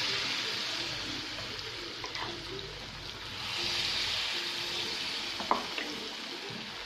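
Carrot malpua batter sizzling in hot oil as ladlefuls are poured into the pan. The hiss swells twice as fresh batter goes in. There is one sharp click about five and a half seconds in.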